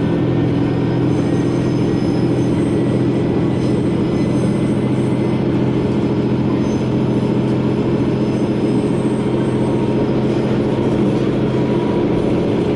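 Sankō Line diesel railcar, a JR West KiHa 120, running along the line, heard from inside the car: a steady engine drone under the rumble of wheels on rail.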